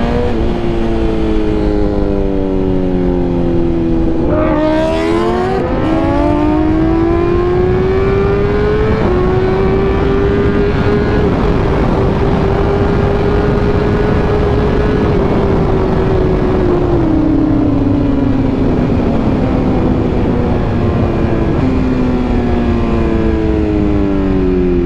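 Superbike engine heard from the rider's seat while riding, pulling up through the revs with a gear change about four seconds in, then holding a high steady pitch. The pitch steps down twice later on and climbs again near the end. Steady rushing wind noise runs underneath.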